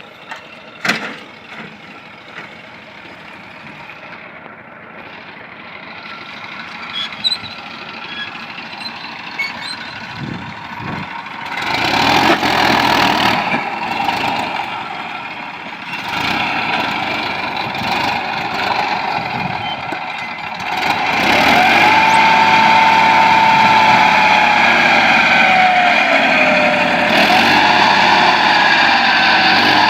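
TAFE 35D tractor running, working harder and louder from about twelve seconds in. In the last third a whine wavers up and down in pitch over the engine.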